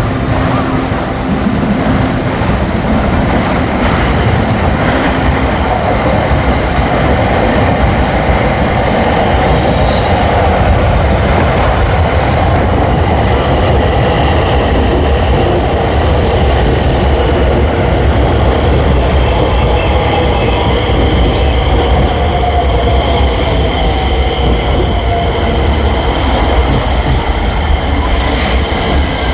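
JR West 227 series electric multiple unit pulling into the station: a steady rumble of wheels on rail, with a high squealing tone from about halfway on and a whine that falls in pitch as the train slows to a stop.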